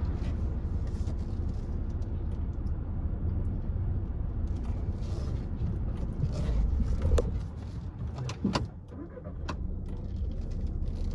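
Volkswagen Touran 1.6 TDI under way on its test drive: a steady low rumble of engine and road noise from inside the car, with a few sharp clicks and knocks near the middle.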